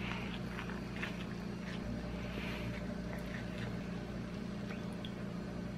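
A man biting and chewing a crispy chicken sandwich: faint, scattered chewing and mouth sounds over a steady low hum.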